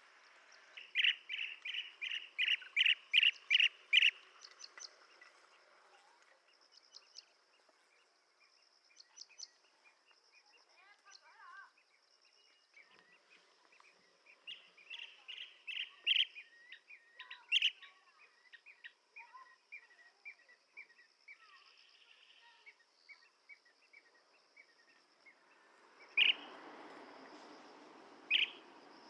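Blue-tailed bee-eater calling: a quick run of short, repeated call notes, about three a second, then scattered notes and a second run, with two single loud calls near the end.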